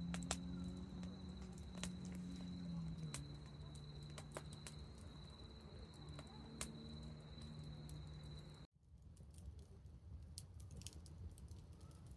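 Faint campfire crackling: scattered small pops and snaps of burning wood. Over the first two-thirds a steady low hum and a thin high tone sit underneath; both cut off abruptly, leaving only the sparse crackle.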